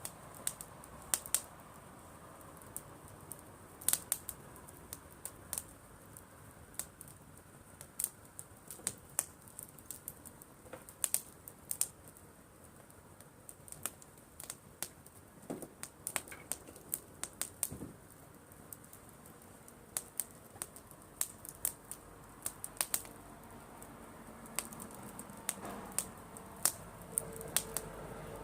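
Driftwood campfire crackling: irregular sharp pops and snaps, a few every second, over a faint steady hiss.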